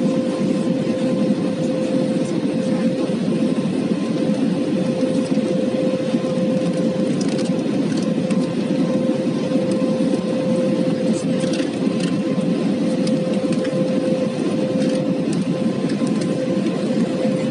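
Airbus A320 airliner in flight after takeoff, its engines and airflow making a steady low rush with one constant hum held at the same pitch throughout.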